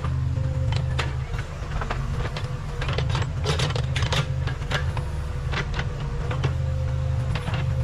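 Case 580 Super K backhoe loader's diesel engine running steadily under work, with a faint steady whine and frequent metallic clanks and rattles from the machine.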